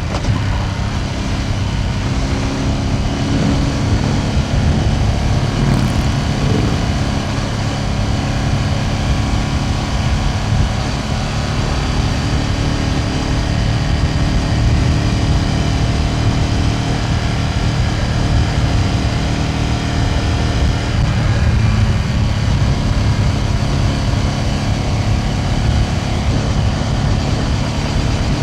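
Ducati Panigale V2S V-twin engine running at steady cruising revs while the motorcycle is ridden, its pitch rising and falling a little.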